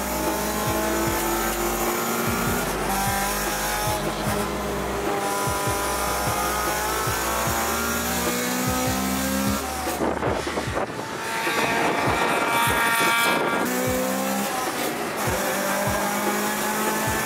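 A Honda Civic EK4 SiR's 1.6-litre DOHC VTEC four-cylinder, heard from inside the cabin, revving hard through the gears on track. Its pitch climbs and drops at each shift. There is a rougher lift-off about ten seconds in, then it revs high again.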